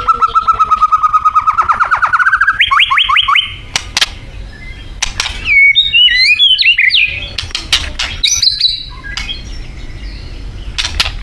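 White-rumped shama singing: a fast stuttering run of repeated notes for about two and a half seconds that steps up in pitch, then sharp clicks and a varied, warbling phrase about six seconds in, with more short notes after.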